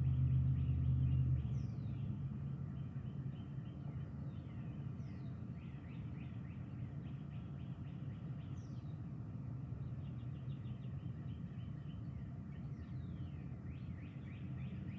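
Birds chirping, with a short descending call repeated every few seconds, over a low steady rumble that drops in level about a second and a half in.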